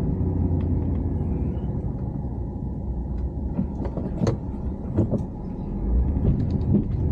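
Pickup truck running with its plow on, heard from inside the cab: a steady low engine and road rumble, with a few short clicks and knocks around the middle.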